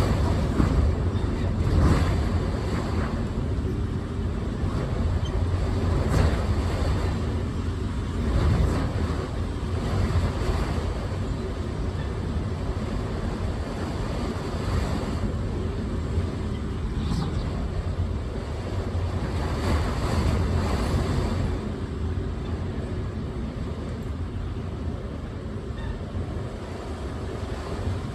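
Strong storm wind buffeting the microphone: a heavy, low rumbling noise that swells and eases in gusts every few seconds.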